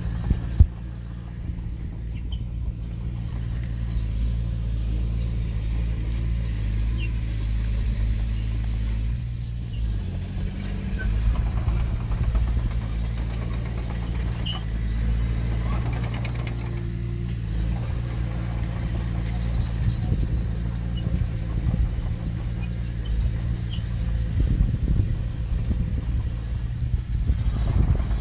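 Diesel engine of earthmoving machinery running steadily, changing note slightly about ten seconds in. A sharp knock comes just after the start, and light metallic clicks and squeaks are scattered throughout.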